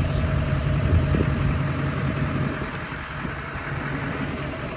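Truck engine idling steadily, a little louder in the first second or two and then easing off slightly.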